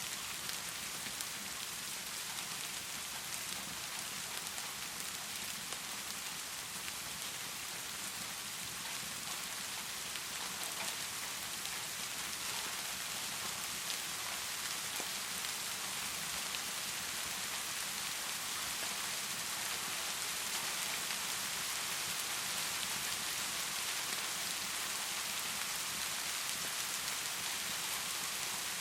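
Heavy rain pouring steadily: a dense, even hiss of countless drops, a little louder in the second half.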